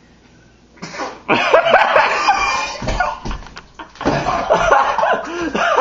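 Loud laughter, starting about a second in after a quiet moment.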